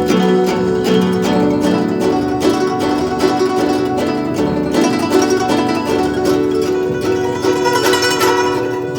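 Guzheng (Chinese zither) played solo: a fast, unbroken stream of plucked notes.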